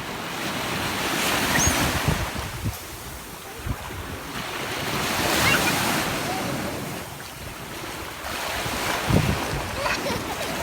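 Sea surf washing in and drawing back, swelling and fading in slow surges, with wind buffeting the microphone.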